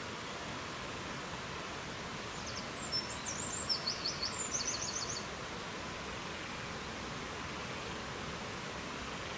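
A songbird sings one short high phrase of chirps ending in a quick trill of repeated notes, starting about two and a half seconds in. Under it runs a steady rushing hiss of wind or water.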